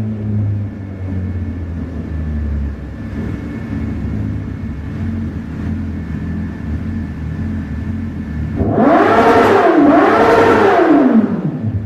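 Honda CBR1000RR inline-four engine through a CS Racing slip-on exhaust, idling steadily and then blipped twice in quick succession near the end, the revs rising and falling each time.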